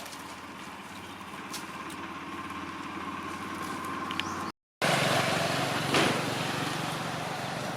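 A motor vehicle's engine running steadily and slowly growing louder. About four and a half seconds in, the sound cuts out for a moment and comes back as a louder, noisier rumble.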